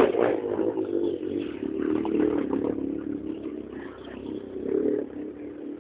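Motorcycle engine running, its pitch wavering up and down with the throttle.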